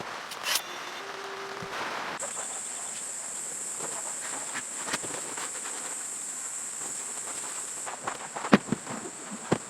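Steady, high-pitched insect call, cricket-like, starting about two seconds in and holding on, over a soft hiss, with a few sharp clicks near the end.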